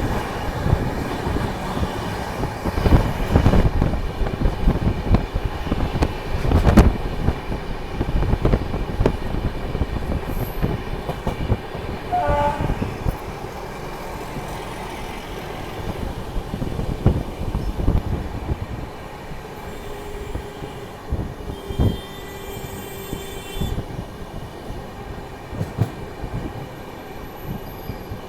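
Passenger train running at speed, wheels rumbling and clattering over the rails, with scattered knocks in the first few seconds before the noise eases a little.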